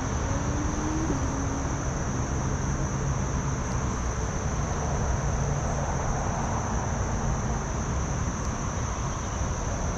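Steady rush of creek water with insects droning at a constant high pitch. A faint rising hum fades out about a second in.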